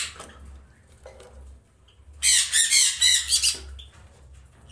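Parrots squawking: a quick run of several harsh, rasping calls about two seconds in, lasting about a second.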